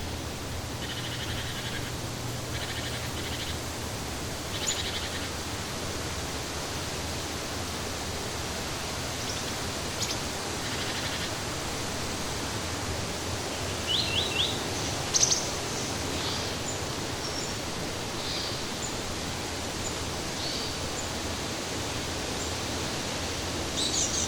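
Steady rush of flowing water with small birds chirping now and then over it; the loudest calls are a quick run of three notes followed by a single sharp call about two-thirds of the way in.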